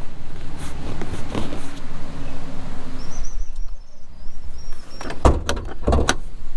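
Ford Maverick with its 2.0 L EcoBoost four-cylinder on the move: a steady low rumble of engine and road. About three seconds in, a thin high wavering whistle runs for some two seconds, and a few sharp knocks follow near the end.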